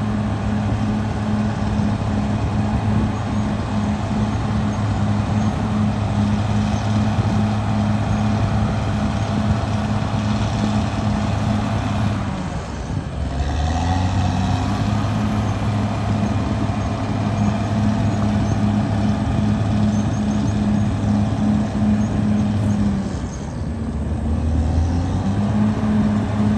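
Caterpillar D6R XL bulldozer's diesel engine running steadily. Its note drops briefly about halfway through and again near the end, then picks back up.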